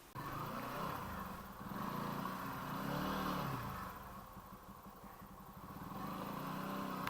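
Motorcycle engine running, coming in suddenly; the revs climb and ease off, then climb again near the end.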